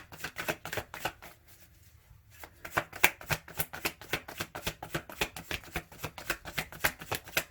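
A tarot deck being shuffled by hand: a fast run of card clicks and flicks that thins out briefly about a second in, then picks up again.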